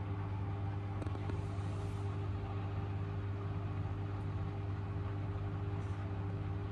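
Miele W1 washing machine running with a steady motor hum and drone, unchanging throughout, with a faint click about a second in.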